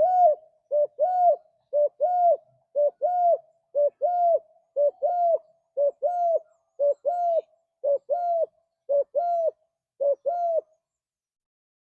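Spotted dove (tekukur) cooing. It repeats a two-part phrase about once a second, a short note then a longer arched coo, and stops near the end.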